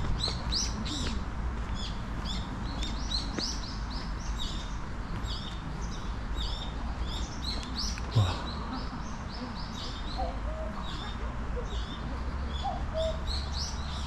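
Forest birdsong: many small birds chirping in quick, high notes throughout. From about ten seconds in, a common cuckoo calls faintly several times. One dull thump about eight seconds in.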